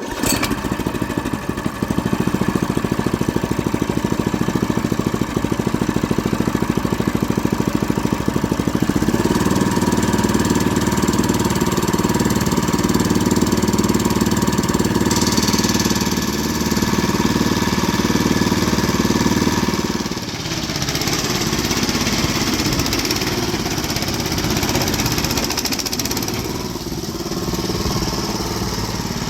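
Small engine of a self-propelled boat trailer running steadily with a fast, rattly beat. Its sound shifts about a third of the way in, and dips briefly a few seconds later.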